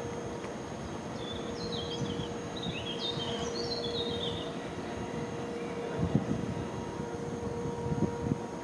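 A songbird singing a few short, quickly descending phrases about one to four and a half seconds in, over steady outdoor background noise with a constant low hum. Near the end come a couple of short low rumbling bumps.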